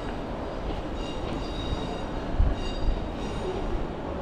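Passenger train at the platform, a steady low rumble with faint high tones that come and go. A dull low bump about two and a half seconds in.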